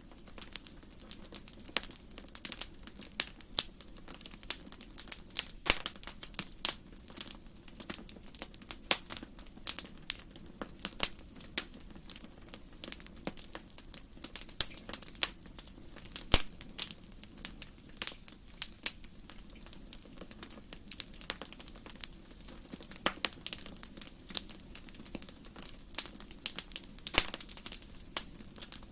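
Wood fire burning in a fireplace, crackling with many irregular snaps and pops, some sharper and louder than others, over a faint low hiss.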